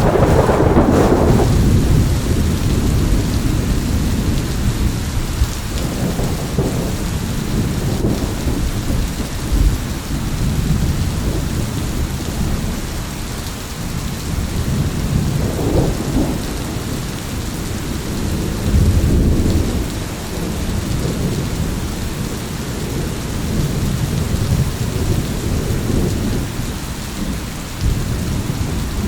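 Thunderstorm: steady heavy rain with rolling thunder, a loud rumble in the first second or two and softer rumbles swelling and fading several times after.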